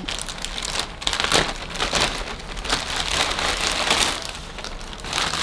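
Parcel packaging being opened by hand: wrapping rustling and crinkling in quick irregular crackles.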